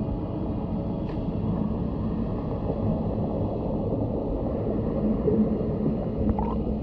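Muffled underwater sound picked up by a GoPro in its waterproof housing on a swimming snapping turtle's shell: a steady low rumbling water noise with a few faint clicks.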